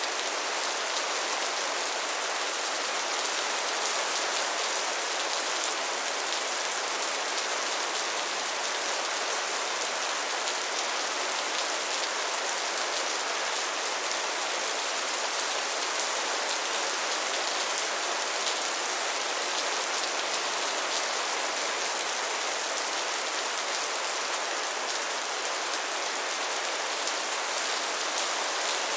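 Steady soft rain: an even hiss of rainfall with fine patter of drops on a surface, unchanging throughout.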